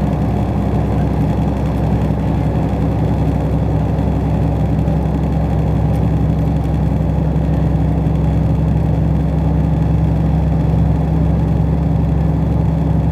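Steady running noise of a passenger train heard from inside the carriage: a constant low hum and rumble that does not change.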